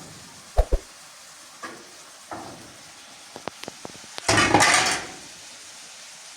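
Household clatter like pots and dishes being handled: two thumps, a few light clinks, then a short loud rush of noise about four seconds in.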